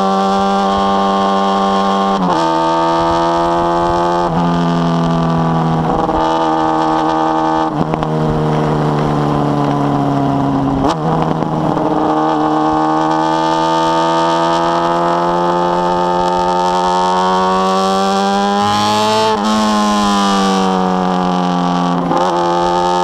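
Honda Hornet inline-four motorcycle engine with a 4-into-1 exhaust, running under way. Its note holds and shifts in steps, then climbs slowly with two brief dips near the end.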